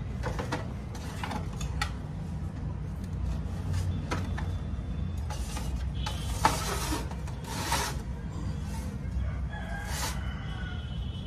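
Scattered clicks and scrapes over a steady low rumble, with a rooster crowing once near the end.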